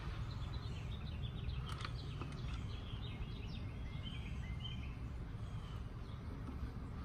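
Small birds chirping outdoors: a quick run of short chirps, then a few slightly longer notes around the middle, over a steady low rumble of outdoor background noise.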